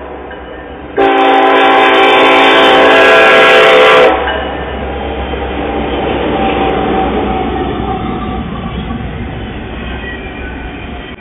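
Norfolk Southern diesel locomotive horn sounding one long blast of about three seconds for the grade crossing, starting about a second in and cutting off. Then the heavy rumble of the locomotives and double-stack container cars rolling past.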